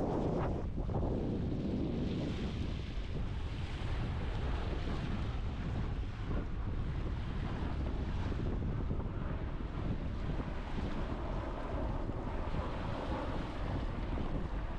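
Wind buffeting the microphone in a steady low rumble, over the wash of small waves breaking on the shore.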